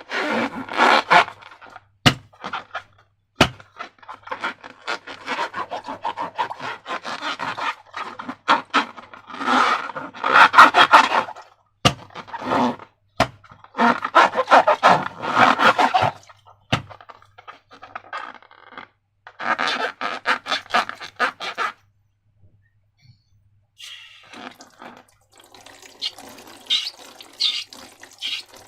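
Slime being squeezed and worked, with wet squelching and crackling in repeated bursts and a few sharp clicks. There is a short pause about three quarters of the way through.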